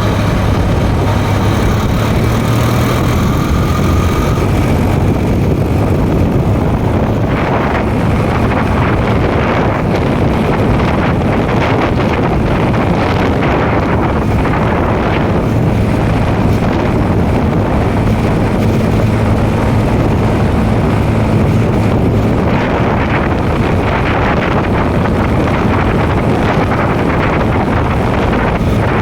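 Tractor engine running steadily on the move, with heavy wind noise on the microphone.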